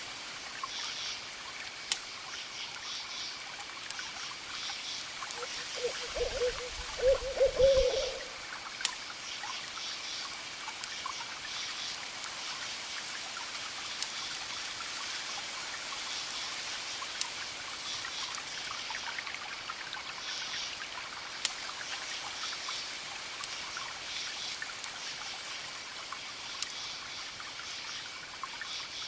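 Campfire crackling in sharp, scattered snaps over a steady wash of distant waves, with crickets chirping in repeated pulsed groups. About six seconds in, a low wavering call lasting about two seconds stands out as the loudest sound.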